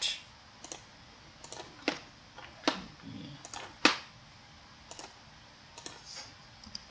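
Computer keyboard keys and mouse buttons clicking: a dozen or so short, sharp clicks at irregular intervals, as a dimension value is typed in and confirmed.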